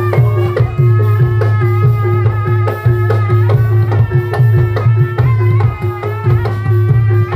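Live traditional Javanese folk ensemble music for a dawangan: steady hand-drum strokes over a sustained low droning tone, with a wavering melody line on top.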